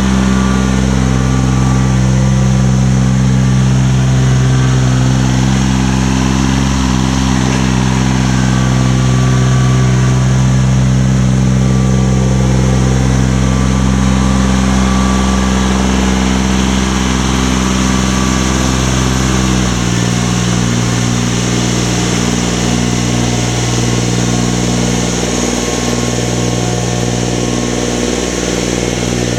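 A motor running steadily with an even hum, its pitch dropping slightly about twenty seconds in.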